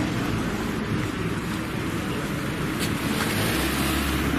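Steady outdoor background noise: a low engine-like rumble under an even hiss, with wind on the microphone.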